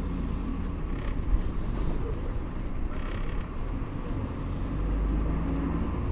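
Bus interior while moving: a steady low engine and road rumble, with faint rattles now and then.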